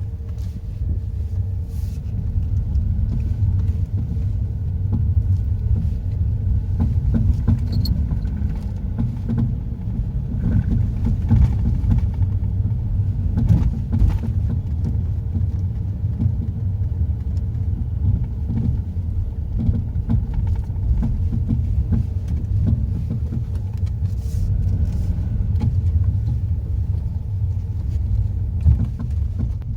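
Car on the move: steady low road rumble with a few scattered knocks.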